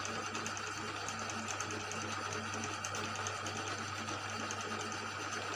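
Small workshop machine's electric motor running steadily, with a low hum and fast light ticking, while a motorcycle cylinder block is being bored.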